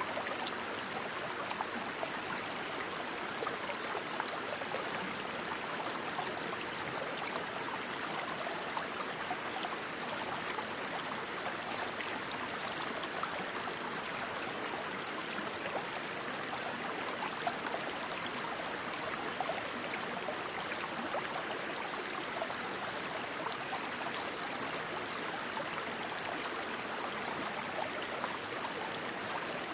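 Steady rush of flowing water, like a stream. Over it come short high chirps repeating every half second or so, with a brief trill about twelve seconds in and another near the end.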